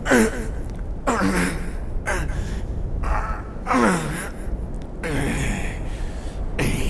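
A man groaning and gasping, several short moans that each fall steeply in pitch, spread a second or so apart.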